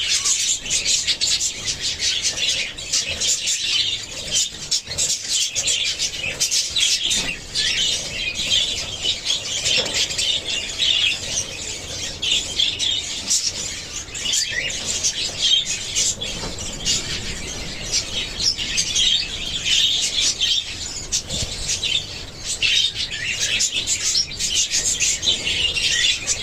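Budgerigars chirping and chattering continuously, a dense stream of high, quick chirps.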